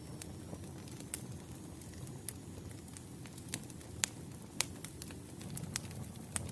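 Campfire burning: wood crackling with sharp, irregular pops over a low, steady rumble of flame.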